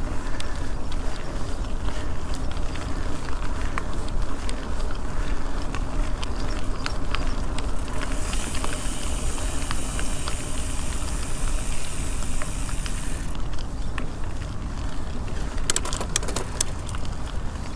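Bicycle being ridden, a steady low rumble with wind on the microphone. A high hiss comes in for about five seconds in the middle, and a few sharp clicks sound near the end.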